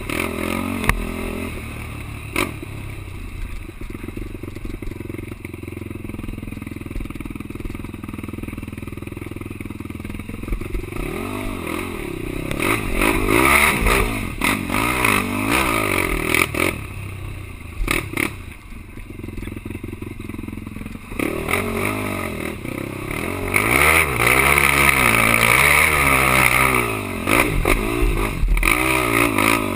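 Quad (ATV) engine revving up and down repeatedly as it races over rough ground, with clattering knocks from the machine.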